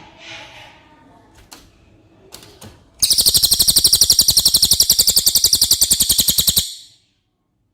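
Cililin bird singing a loud, fast, even trill of about a dozen notes a second. It starts about three seconds in and stops abruptly after about three and a half seconds.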